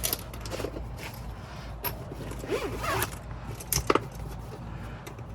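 Zipper on a tool bag pocket being worked, with short scratchy pulls and a few sharp clicks of tools and small metal parts being handled.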